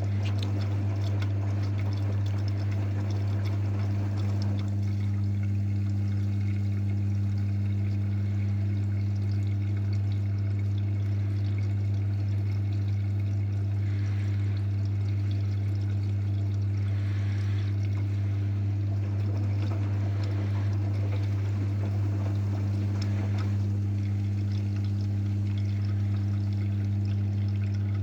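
AEG washing machine during its pre-wash, with water pouring and trickling inside it over a steady low electrical hum.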